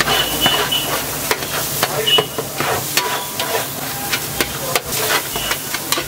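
Paneer bhurji frying in butter in a wide shallow pan: the fat sizzles steadily while a metal spatula stirs and scrapes the crumbled paneer, with frequent sharp clicks of the spatula striking the pan.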